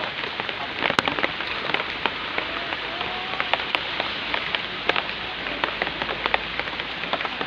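Steady rain falling, with many sharp single drop hits scattered through it.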